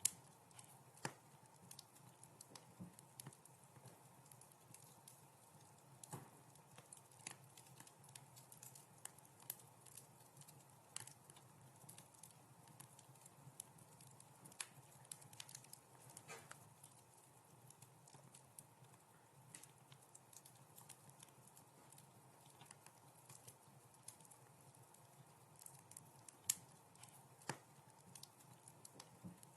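Wood fire crackling in a fireplace: irregular pops and snaps, a few sharper ones standing out, over a faint steady low rumble.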